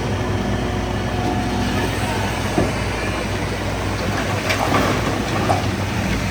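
Heavy diesel engine of a bulldozer running steadily, with its steel tracks clanking and squealing a few times, loudest around two and a half seconds in and again near the end.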